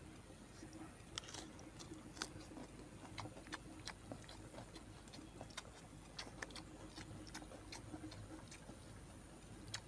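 Faint, irregular small clicks and mouth smacks of someone chewing grilled fish close to the microphone, one or two a second.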